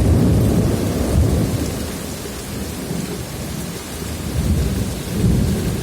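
Heavy rain pouring down with thunder rumbling, the rumble swelling suddenly at the start, easing off in the middle and building again near the end.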